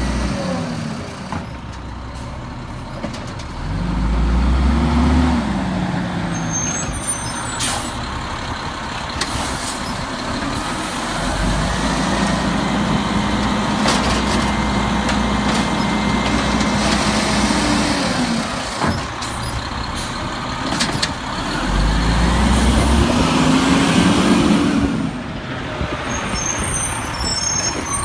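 Peterbilt 320 garbage truck's diesel engine idling and revving up three times, the second rev held for several seconds, each dropping back to idle, the engine speeding up to drive the automated side-loader's hydraulics. Knocks and air-brake hisses come in between.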